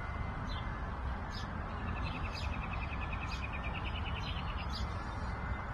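Birds chirping in short high calls, with a rapid trill of about ten notes a second from about two seconds in, over a steady low background rumble.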